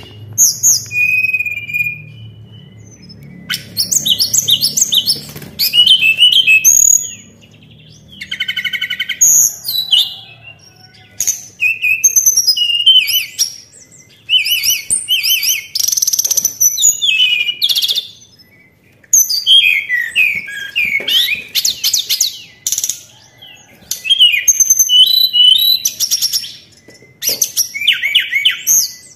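Tledekan, a Cyornis blue flycatcher, singing a lure song: a run of high, varied whistled and trilled phrases, each a second or two long, with short pauses between them. A faint low hum lies under the first third.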